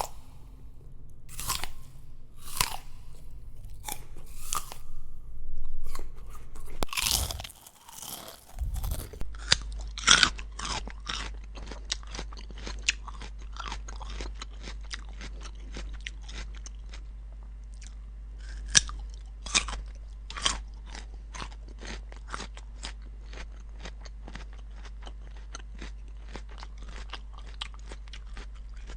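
Crunchy food being bitten and chewed close to the microphone. A handful of separate loud crunching bites over the first nine seconds, then a different take of fast, steady crunchy chewing, several chews a second, over a constant low hum.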